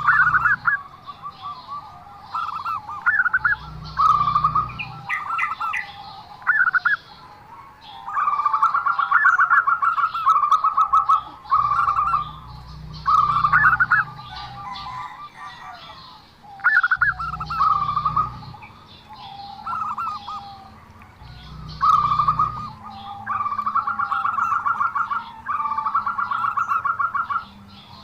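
Zebra dove calling over and over: phrases of rapid trilled cooing notes every few seconds, the longest held for two to three seconds. Low rumbles come and go underneath.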